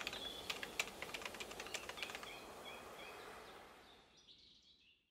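Birds chirping in short high calls over a light background hiss, with scattered sharp clicks, the whole fading out to silence near the end.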